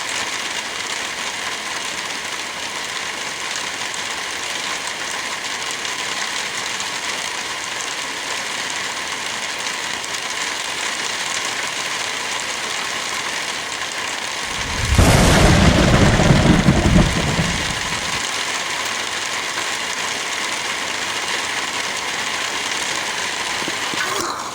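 Heavy rain falling in a steady hiss, with a loud clap and rumble of thunder about fifteen seconds in that lasts about three seconds.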